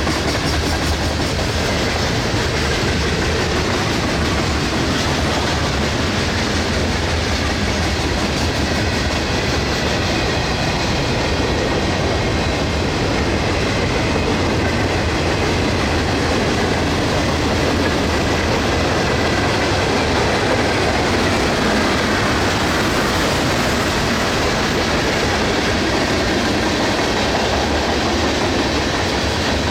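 Freight cars of a mixed manifest train rolling past, a steady rumble with the clatter of wheels over rail joints.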